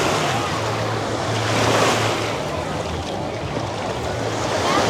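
Ocean surf washing onto the beach, one wave swelling and breaking about two seconds in, with wind on the microphone and a faint steady low hum underneath.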